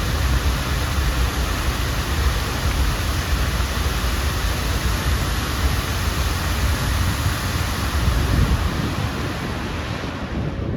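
Steady rushing and splashing of the Bellagio fountain's water jets spraying up and falling back into the lake, with a deep rumble beneath; the hiss thins out near the end.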